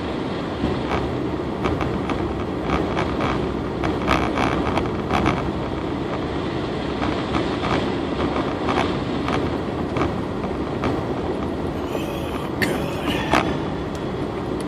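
Car driving on a snow-covered road, heard from inside the cabin: a steady rumble of tyres and engine with scattered knocks and clunks throughout, and a few sharper ones near the end.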